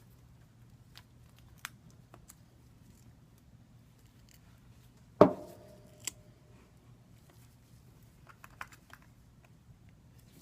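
Scattered small clicks and taps of hand tools at work, with one sharp knock about five seconds in that rings briefly, like a tool set down hard on the bench.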